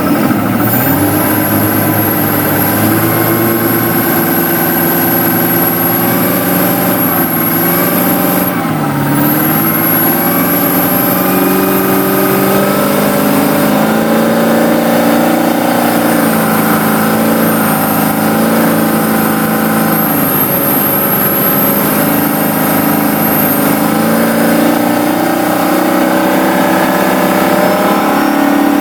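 Vehicle engine running and being revved up and down, with a thin, very high-pitched whine above it that comes and goes.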